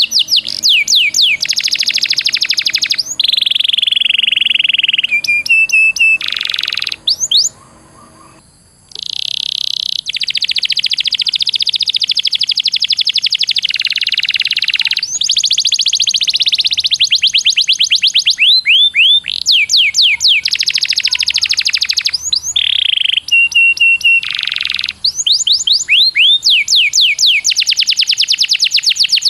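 Songbird singing loud, fast trills of rapidly repeated notes, alternating with runs of sharp upward-sweeping whistles, with a brief lull about a quarter of the way in.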